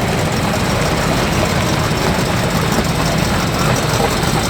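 Engine of an American show car idling steadily, low-pitched.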